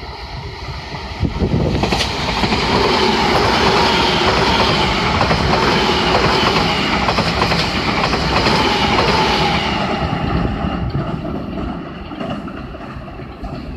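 Semboku Rapid Railway 7000 series electric train passing at speed. The noise builds about a second and a half in, stays loud, and fades away after about ten seconds.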